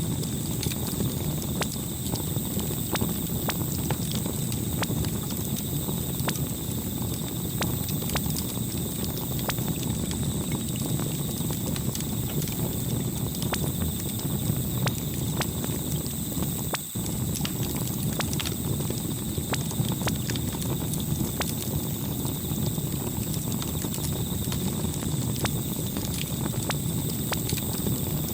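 Campfire crackling: irregular sharp pops and snaps over a steady low noise of burning wood, with a brief dip about seventeen seconds in.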